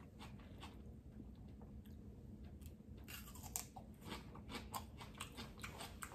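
Crunching and chewing of raw bell pepper. The crisp crunches are sparse at first and come thick and fast from about three seconds in.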